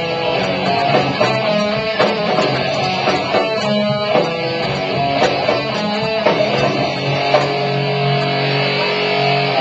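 Live rock band playing an instrumental passage with no singing, loud and steady throughout.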